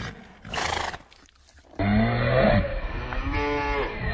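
A cow mooing: one long, low call that starts about two seconds in, after a brief noisy sound near the start.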